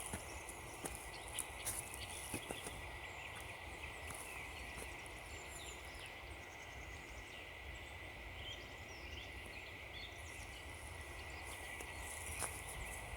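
Quiet winter woodland ambience with faint, distant birds chirping on and off, and a few soft crunching footsteps on frozen ground in the first couple of seconds.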